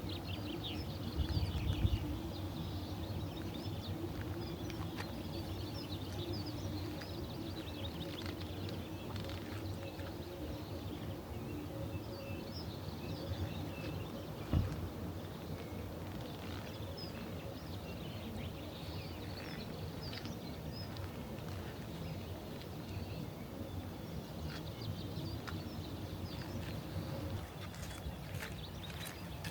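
Birds chirping and calling over a steady low background hum, with a single knock about halfway through.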